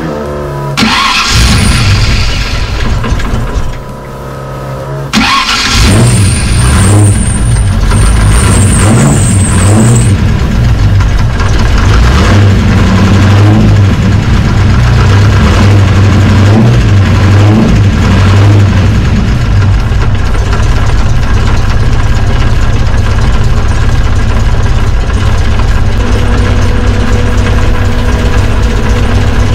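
Ford 5.0 V8 in a Fox-body Mustang being started: the starter cranks and the engine catches, its sound dips about four seconds in, then picks up again about five seconds in and runs steadily at idle. A thin high whine sounds for a few seconds after it picks up.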